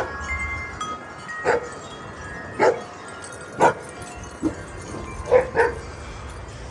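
A dog barking repeatedly, about seven short barks with two in quick succession near the end, while wind chimes ring faintly.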